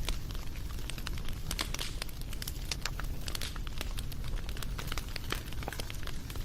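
Wood fire burning, with irregular sharp pops and crackles over a steady low rumble of flame.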